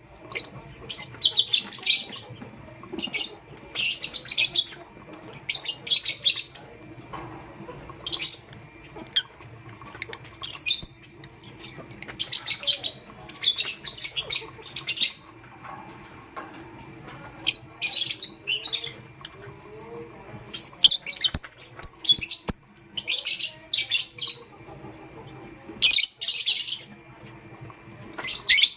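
Lovebirds chirping in short, rapid, high-pitched bursts that recur every second or two, over a faint steady hum.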